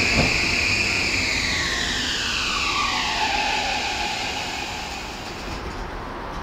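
Toei 5500 series electric train running on its rails, its motor whine falling steadily in pitch while the sound fades. A couple of wheel clicks come right at the start.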